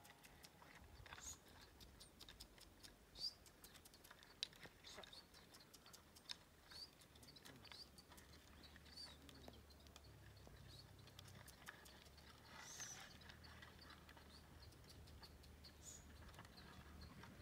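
Near silence with faint, short, high chirps of small birds about once a second, and a few soft clicks.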